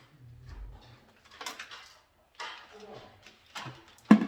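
Handling noises from wiring work: irregular rustling and scattered clicks of tools and parts, with a sharp click about four seconds in.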